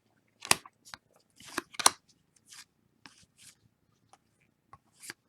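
Football trading cards being handled: faint short crinkles and clicks, about half a second in, a cluster around two seconds in, and one more near the end.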